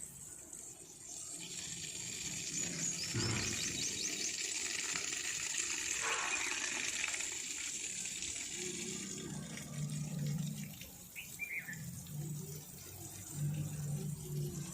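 Water running and splashing for several seconds, with a brief high bird trill over it and a short falling bird chirp later on.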